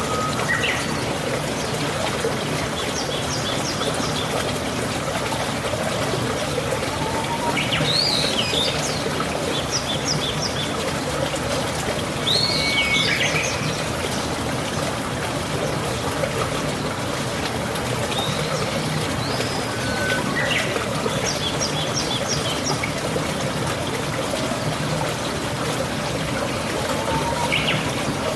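Steady rain with water trickling and pouring, and a bird chirping in short bursts of quick notes every few seconds.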